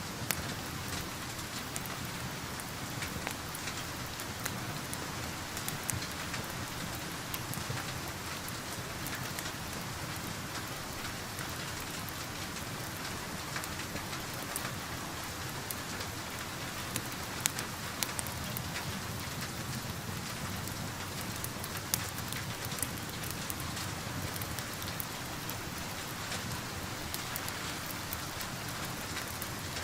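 Steady rain falling, with scattered sharp pops and crackles from a wood fire in a fireplace.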